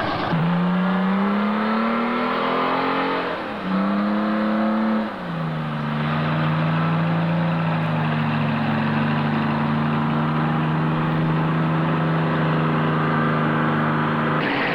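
Mud truck's engine pulling hard, its pitch climbing through two gear changes, then running steadily under load.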